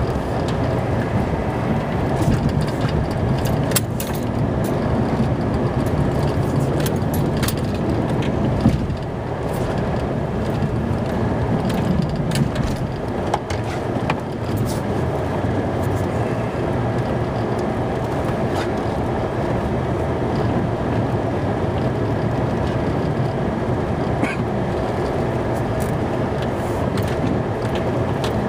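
A vehicle running steadily, engine and road noise, with scattered short clicks and knocks.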